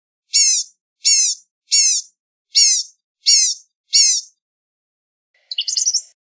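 Blue-gray gnatcatcher calling: six thin, high notes, each falling in pitch, repeated about every two-thirds of a second, then a short run of quick twittering notes near the end.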